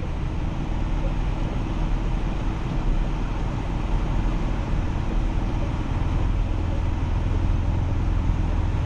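Ford Focus RS engine running steadily under load, heard from inside the cabin, over a steady hiss of tyres pushing through deep snow.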